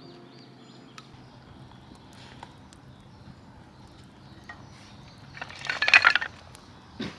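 Hard objects clinking and rattling together in a dense clatter for about a second near the end, followed by a single knock. A few faint ticks come before it.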